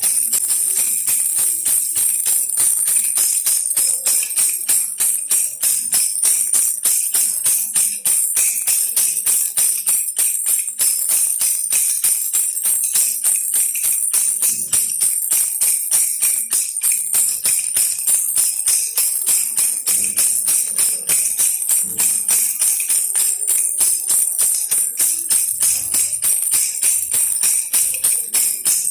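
Baby rattle shaken steadily in quick, even shakes, giving a continuous high jingling rattle of many small clicks.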